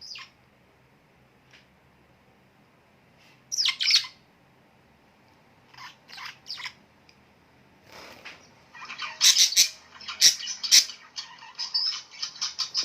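Small birds chirping: a pair of sharp calls about three and a half seconds in, three short calls around six seconds, then from about nine seconds in a busy run of rapid, overlapping chirps.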